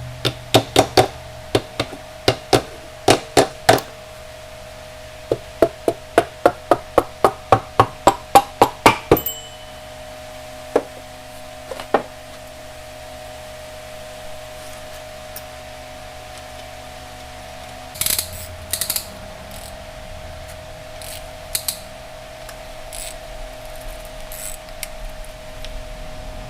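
Hand tools knocking and clicking on metal engine parts during engine disassembly: a quick run of sharp knocks, about two to three a second, then a few scattered single knocks, over a steady hum.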